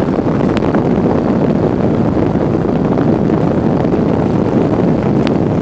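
Steady running of a small boat's outboard motor with wind on the microphone, and a couple of brief sharp clicks.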